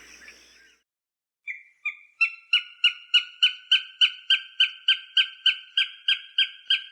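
A falcon giving a rapid, even series of sharp repeated calls, about three a second, starting after a second and a half of quiet and stopping just before the end. The first couple of calls are softer and lower. This is the alarm-type cackle of a bird of prey, played to scare off smaller birds.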